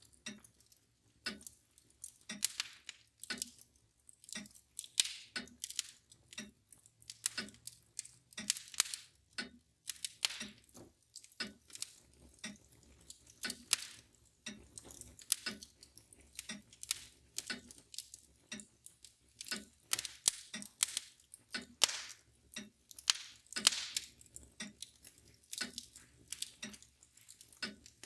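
Wood fire crackling and popping in sharp, irregular snaps, with a mantel clock ticking steadily underneath.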